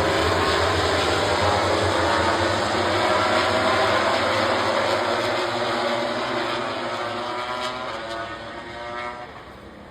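MotoGP racing motorcycles passing at speed. The engine note is loud at first, then fades away over the last few seconds as they move off.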